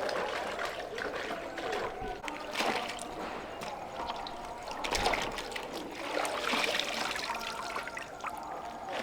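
Water trickling and splashing, with scattered irregular clicks and knocks and a dull thump about five seconds in.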